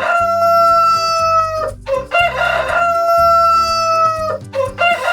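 Rooster crowing cock-a-doodle-doo again and again, about every two and a half seconds: each crow a short rising start and then a long held note that sinks slightly at the end, the next crow starting near the end.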